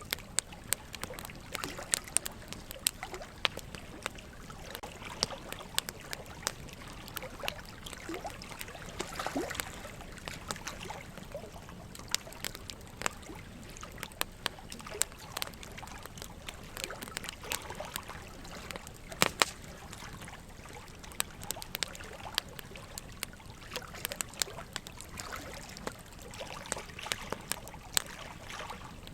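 Wood fire crackling, with frequent sharp pops and snaps, the loudest about 19 seconds in, over a steady trickle of running water.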